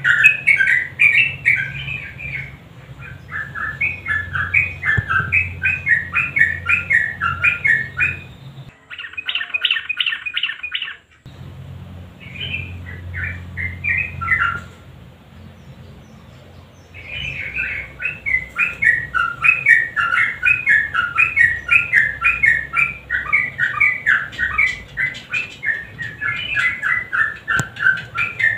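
Yellow-vented bulbul (trucukan) singing a long, fast run of chattering, bubbling notes, with a short pause about two-thirds of the way through. A faint low hum sits under the song.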